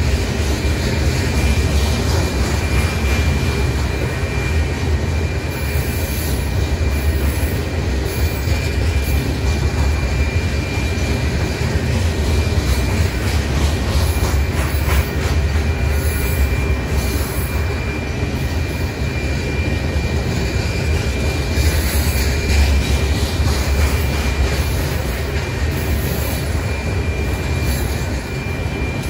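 Hopper cars of a rock train rolling past on the rails: a steady low rumble of wheels and trucks, with scattered clicks and a thin, steady high-pitched tone over the top.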